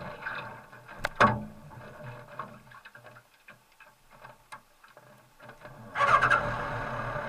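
Scattered clicks and light knocks over a faint low hum, with a short falling squeak about a second in. About six seconds in, the Kawasaki ZRX1200R's inline-four engine starts and keeps running.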